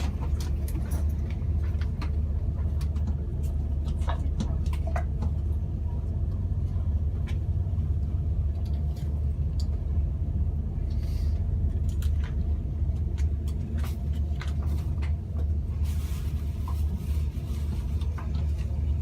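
Steady low rumble of a moving train, heard from inside the passenger carriage, with scattered light clicks and knocks and a hiss near the end.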